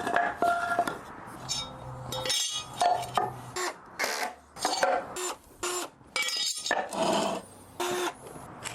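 A string of short, sharp clinks and knocks, many with a brief ringing tone, from hard pieces being handled and set down on a workbench.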